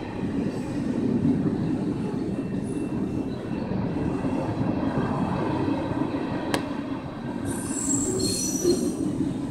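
Freight train cars rolling past, a steady rumble of wheels on the rails. There is one sharp click about two-thirds of the way through, and a high-pitched wheel squeal near the end.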